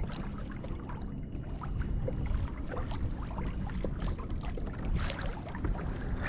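Water lapping and trickling against a kayak hull in small irregular splashes, over a steady low rumble of wind on the microphone.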